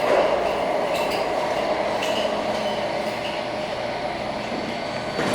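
Otis Gen2 elevator car travelling between floors: a steady running rumble heard from inside the cab, with faint brief tones about once a second.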